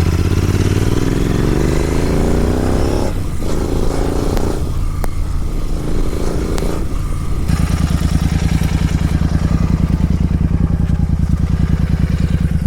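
Superbike with an aftermarket full-system exhaust accelerating, its engine note rising through the gears with short breaks at the upshifts. From about halfway on it settles into a steady low-rev run with an even exhaust pulse, recorded from a microphone at the back of the bike.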